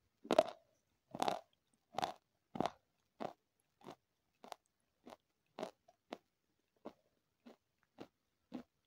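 Close-miked chewing of a crunchy food: one loud crunching bite just after the start, then steady chewing about one and a half chews a second, growing quieter as the mouthful breaks down.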